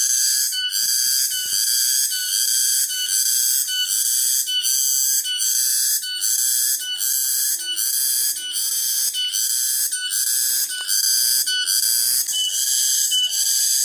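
Cicadas singing loudly in a shrill, continuous drone that pulses in a steady rhythm a little under twice a second.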